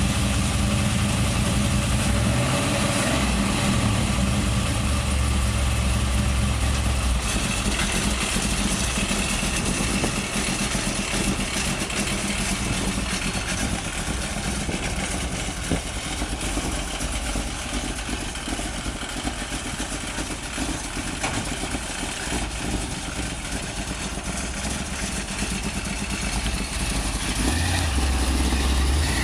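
Chevy 350 small-block V8 in a 1973 VW Beetle running at low speed with a deep rumble, strongest for the first several seconds. It thins out as the car moves off, then swells again near the end as the car passes close.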